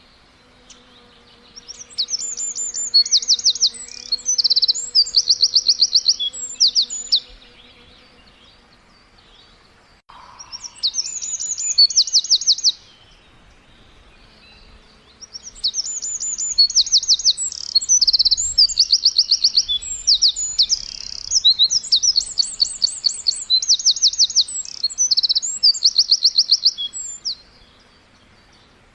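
A small songbird singing high, rapid chirps in quick trilled series, in three bouts with short pauses between.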